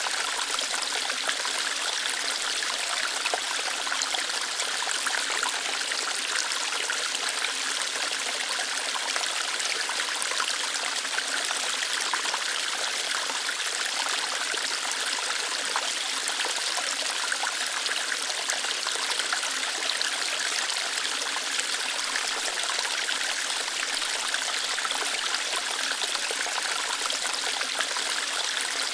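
Small waterfall of water flowing lightly over rocks, a steady even splashing rush with no pauses.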